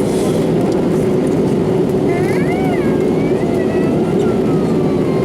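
Steady cabin noise of an Airbus A320 airliner in flight: a constant rush of engine and airflow noise with a steady hum running through it. Faint voices in the cabin are heard about halfway through.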